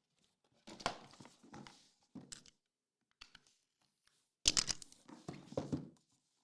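Packaging being torn open and crinkled by hand in several short rustling bursts, the loudest about four and a half seconds in.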